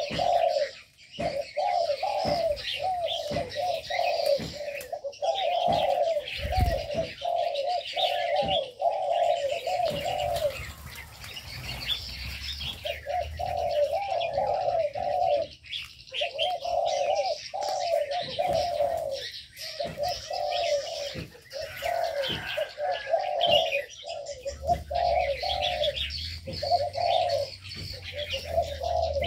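Doves cooing in long runs of repeated, arching coos, about two a second, with a few pauses, over the steady high chirping of small birds in an aviary.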